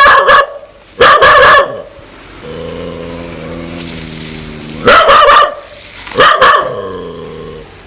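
A dog barking in four loud, short bursts, threatening as if wanting to bite: two barks a second apart at the start, and two more near the end. A steady low drone sounds in the gap between them.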